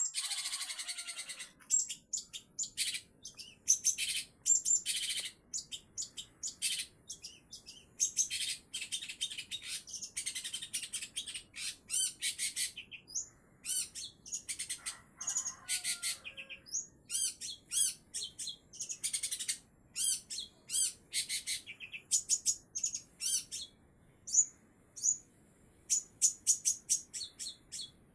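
A songbird singing: a long string of high chirps and quick trilled phrases with short gaps between them.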